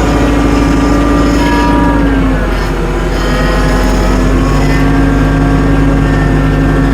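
Tractor engine running steadily under load while driving on snow chains; its pitch sags about two seconds in, then picks back up and holds.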